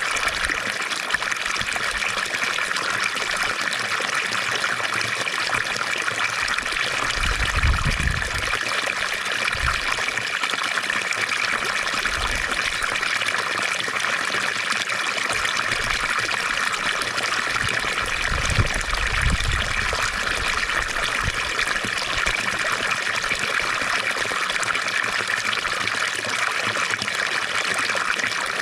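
Water from a fountain splashing and trickling steadily. Brief low rumbles come about eight and nineteen seconds in.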